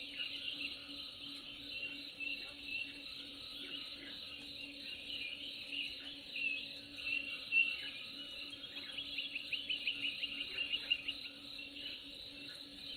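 Birds chirping and calling, with a rapid trill of quick repeated notes in the second half, over a steady low background hum.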